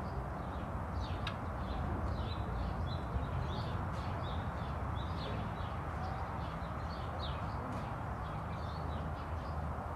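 Small birds chirping over and over, many quick short notes, over a steady low background rumble.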